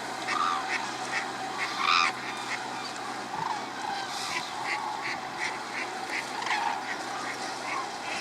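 A large flock of water birds calling over one another, many short honking calls a second, one louder call about two seconds in. Underneath runs the steady low hum of the feeding tractor's engine.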